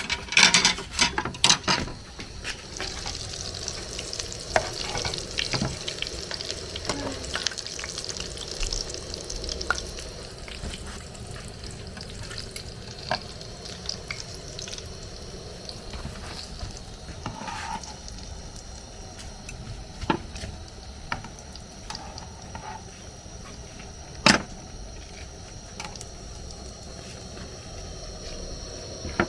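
Plantain fish pies frying in hot oil: a steady sizzle, with scattered sharp clicks and knocks. Several loud clicks come in the first two seconds and one more about five seconds before the end.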